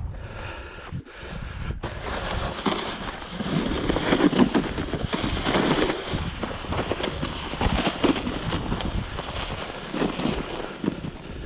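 Snow being scraped and pushed with a hand snow shovel, a long stretch of grainy, crunching scraping that starts about two seconds in, after a few crunching steps in the snow.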